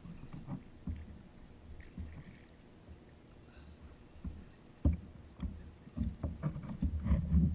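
Irregular low thumps and knocks on a plastic fishing kayak's hull, sparse at first and busier over the last couple of seconds.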